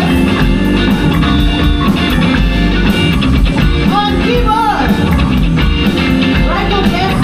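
Rock band playing live: drums and guitars keep a steady beat, with sung vocal lines coming in about four seconds in and again near the end.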